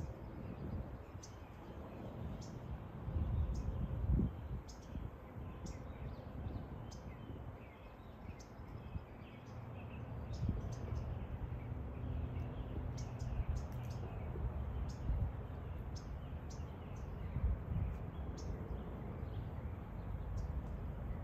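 Birds chirping: short, high notes scattered through, a few every second or so, over a steady low rumble.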